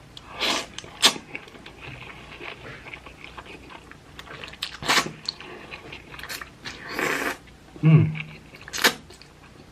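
Close-miked eating of hot chicken ramen noodles: a handful of short noisy slurps and wet chewing, with a couple of sharp clicks. A brief low vocal hum glides downward about eight seconds in.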